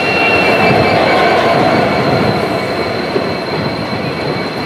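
Passenger train coaches rolling past close by as the train pulls into the station: a steady heavy rumble and clatter of wheels on the rails. A thin high squeal fades out in the first two seconds.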